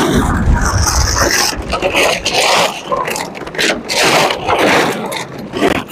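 Empty plastic bottles being pushed and dragged aside in a heap: an irregular jumble of scraping, crinkling and hollow knocks.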